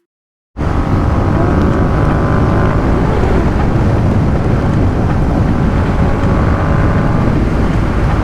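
Motorcycle engine and exhaust running steadily while riding, with heavy wind buffeting the microphone; it cuts in suddenly about half a second in.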